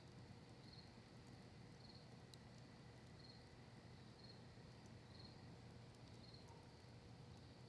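Faint cricket chirping, one short high chirp about every second, over a low hiss. A few faint sharp pops from the burning campfire wood.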